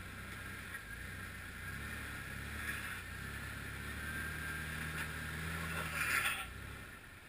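A Jeep Wrangler's engine running at low revs under load as it crawls up a steep rock ledge. It pulls harder from about four seconds in and eases off near the end, with a brief rush of louder noise about six seconds in.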